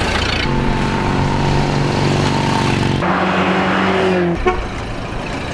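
Vintage car engines running, in a few short shots that cut abruptly from one to the next, each with its own steady engine pitch.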